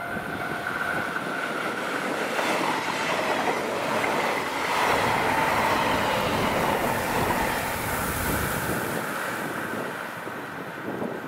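A six-car JR Hokkaido 733 series electric multiple unit passes close by at speed, wheels clattering over the rails with a continuous rushing noise. The noise is loudest as the middle cars go by and fades as the train pulls away near the end.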